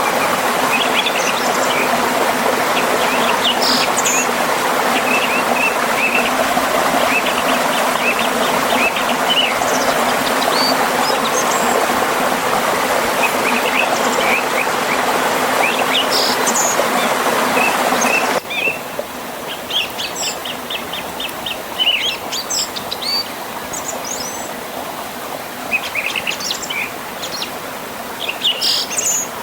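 Steady rushing of a river and small waterfall, with several songbirds chirping and trilling over it. About two-thirds of the way through, the water sound drops abruptly to a softer flow, leaving the birdsong clearer.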